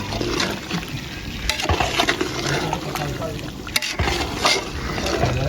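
Liquid sloshing in a cooking pot as it is stirred, with several sharp metal clinks.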